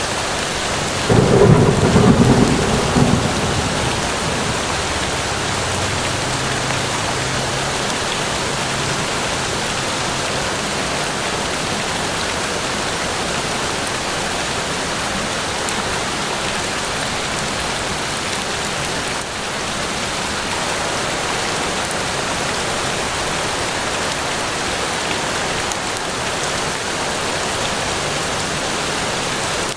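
Steady rain falling, with a clap of thunder about a second in that rumbles away over the next several seconds.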